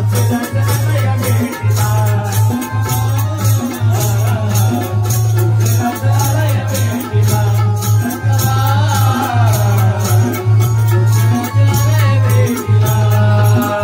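Marathi bhajan music played as an instrumental passage: a melody line winding up and down over a fast, even beat of drum and jingling rattle-like percussion, with no singing.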